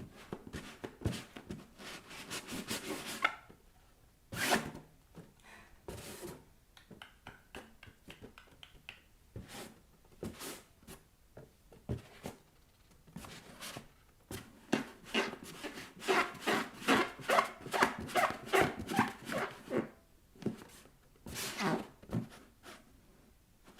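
Bare soles rubbing and tapping on inflated rubber balloons: a long series of short scraping strokes, with a fast run of them in the second half.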